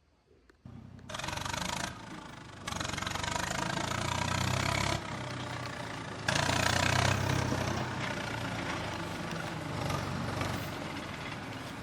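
Remote-control toy tractor running, starting about a second in; its sound steps up and down several times as it is driven, stopped and driven again.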